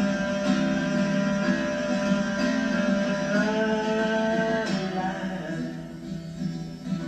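Guitar strummed through an instrumental passage of a song, with some held notes in the middle, getting quieter in the last couple of seconds.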